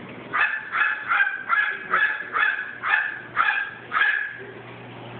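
Pet crow imitating a small dog's bark: a rapid run of about nine short, harsh barks, roughly two a second, stopping about four seconds in.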